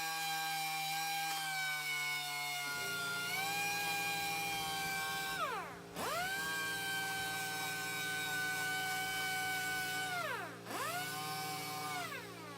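Air-powered sander fitted with 250-grit sandpaper, spinning with a high steady whine while it sands the hub seat in the steering knuckle. Its pitch drops sharply and recovers a few times as it bogs under load or is throttled.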